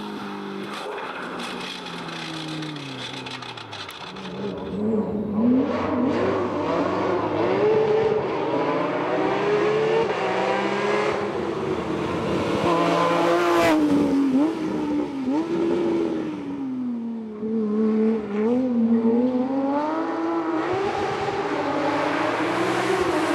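Hillclimb race car engine at full throttle, its pitch climbing and dropping again and again through gear changes and lifts for corners, growing louder about four seconds in as the car draws closer.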